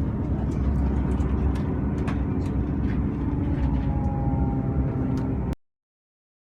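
A train running at the station: a steady low engine rumble with scattered sharp clicks, cutting off suddenly about five and a half seconds in.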